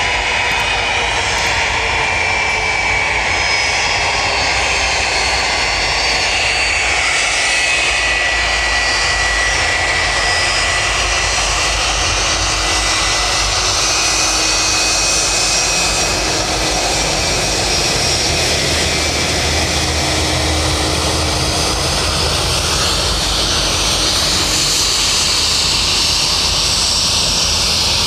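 Jet airliner engines running: a steady rush of jet noise with faint whining tones that slowly fall in pitch.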